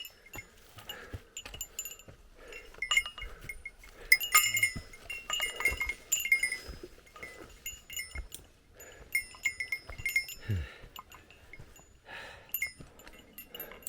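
Small hiker's bear bell jingling in irregular clusters of short, high, ringing tinkles as the wearer walks.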